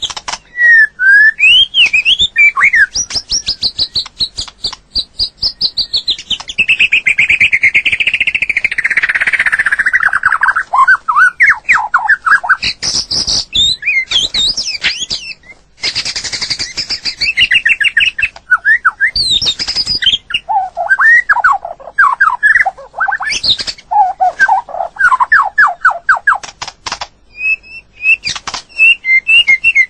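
White-rumped shama singing a long, varied song of loud whistled phrases that slide up and down, with fast runs of repeated notes and sharp clicking notes in between.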